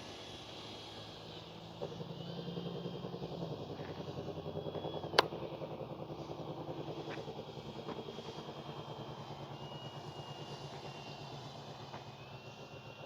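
Electric motor and three-blade propeller of an RC warbird (a 6S brushless outrunner swinging an 18x12 prop) droning in flight, with a fast pulsing in its loudness and a thin motor whine that steps up in pitch now and then. A single sharp click sounds about five seconds in.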